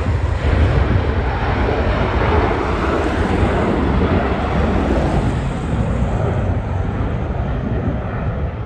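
Jet airliner's engines passing close: a loud, steady low rumble with a broad rushing noise above it, easing a little near the end.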